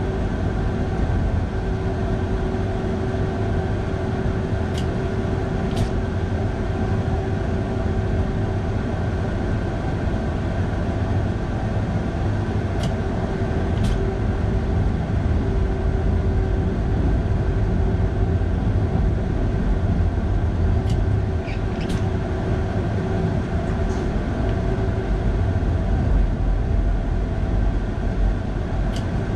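Electric train climbing through a rock tunnel, heard from the driver's cab: a steady low running rumble with a constant hum. Pairs of sharp clicks about a second apart come every eight seconds or so.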